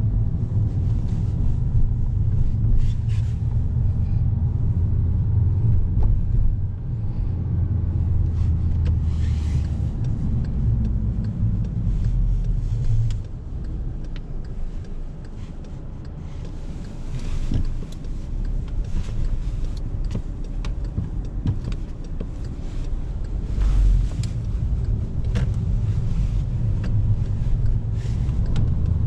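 2011 Volkswagen Golf VI with the 1.4 TSI twincharged four-cylinder and DSG gearbox driving in town, engine and road rumble. The rumble is strong for about the first half, drops off for several seconds as the car eases off, and builds again near the end.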